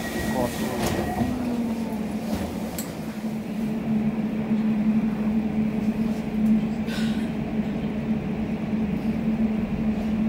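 Electric commuter train running between stations, heard from inside the carriage: a steady motor hum over the rumble of the wheels on the track, with a few light clicks and a short hiss about seven seconds in.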